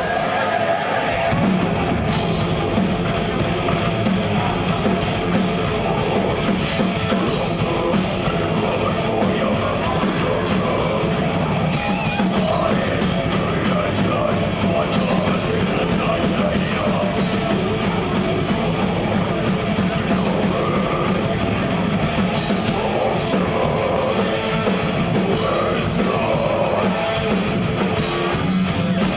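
Live death metal band playing: distorted electric guitars and bass over fast, dense drumming.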